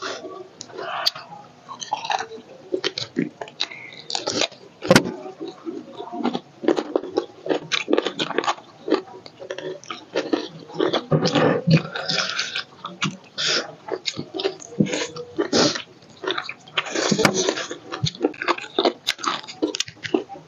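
Close-miked mouth sounds of two people eating chicken by hand: chewing, wet lip-smacking and sucking at the meat, in a constant irregular run of short clicks and smacks.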